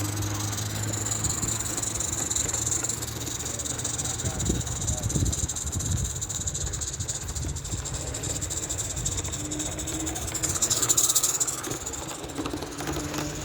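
Live-steam model locomotive running on a garden railway, a steady hiss of steam, swelling to its loudest as it passes close about eleven seconds in.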